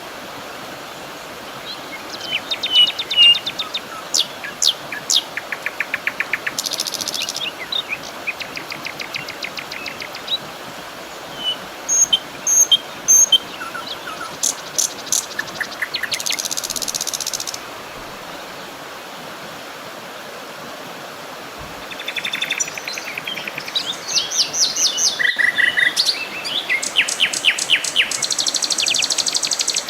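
Several wild birds calling and singing: short chirps, whistled notes and fast trills, with a lull of a few seconds past the middle. Under them runs a steady even hiss.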